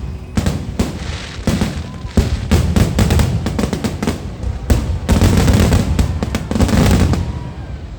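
Fireworks going off in a rapid barrage of booms and crackling bursts, thickest in the second half.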